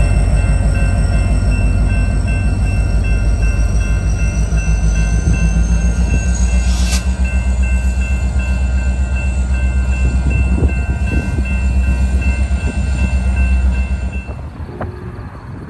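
A train rumbles past a grade crossing while the crossing's warning bells ring in a fast, even repeat. Both the rumble and the bell stop suddenly about a second before the end.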